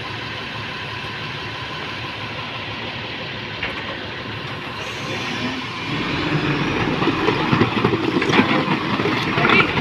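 Heavy construction machinery's diesel engine running, getting louder about six seconds in, with a few knocks near the end.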